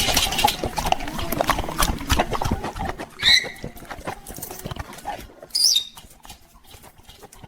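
Parrot giving two short, high chirps, about three seconds in and again near six seconds, after a run of clicking and scratching in the first few seconds.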